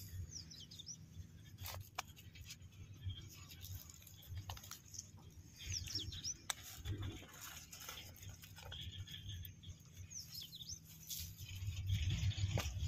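A bird calls three times, about five seconds apart, each a quick high falling chirp. Under it runs a low rumble that grows near the end, with a few sharp clicks and rustles.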